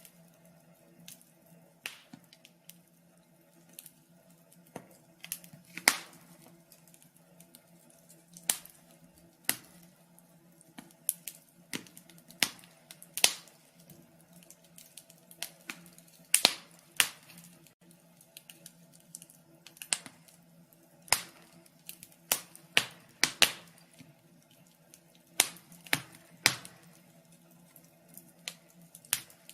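Wood fire crackling: irregular sharp pops and snaps, some much louder than others, with quiet stretches between clusters.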